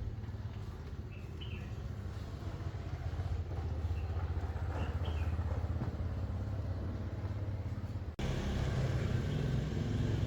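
A motor vehicle's engine running steadily with a low hum, with a few faint short chirps over it; the sound changes abruptly about eight seconds in.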